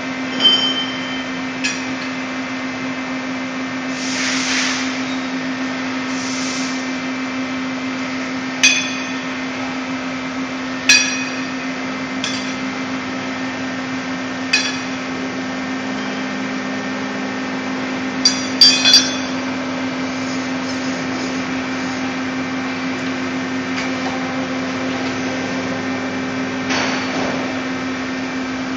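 Steady hum of a CNC lathe standing powered up, with about ten sharp metallic knocks and clicks, several close together near the middle, as tooling and parts are handled and fitted during setup. A few brief hissing rushes are heard near the start and near the end.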